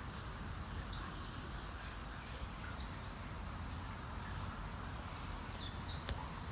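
Outdoor ambience with a steady low hum and a few brief, high bird chirps, about a second in and twice near the end, plus one sharp click just before the end.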